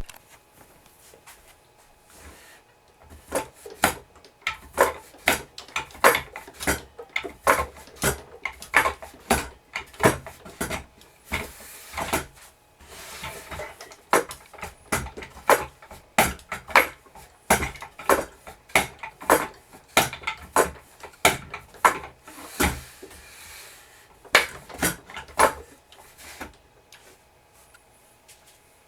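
Wooden walking-horse toy stepping along, its wooden legs knocking on the surface in a run of sharp clacks about two a second. The knocking starts a few seconds in and stops shortly before the end.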